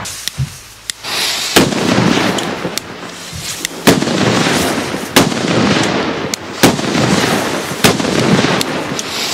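Funke Trueno no.4 firecrackers going off: about eight sharp, loud bangs at uneven intervals, the loudest about four seconds in, with a steady rushing noise between them.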